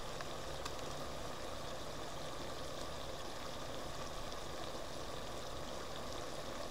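Chopped sausage, onion and pickled cucumbers sizzling steadily in a frying pan.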